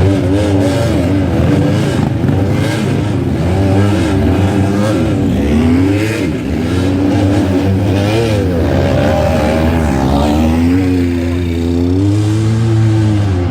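Classic pre-1965 scramble sidecar outfits' motorcycle engines revving hard, their pitch repeatedly rising and falling as the throttle is opened and shut through the mud, with more than one engine at times.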